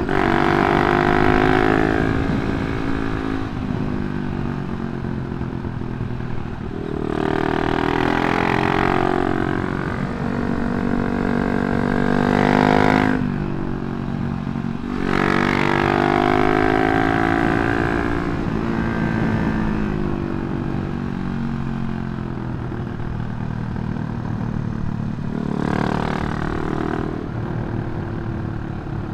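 Yamaha Jupiter MX single-cylinder four-stroke engine, bored to 177cc, exhaust through a CLD C7 aftermarket silencer, under way. It makes several throttle pulls, each rising in pitch and then dropping off at a gear change or throttle lift, the loudest about 7 to 13 seconds in and again about 15 to 18 seconds in.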